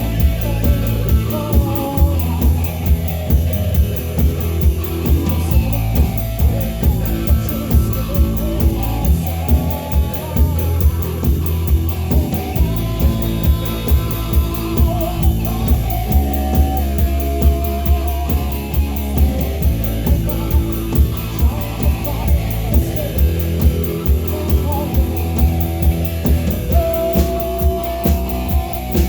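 Rock band playing live: electric guitars, bass guitar and a drum kit with a steady driving beat.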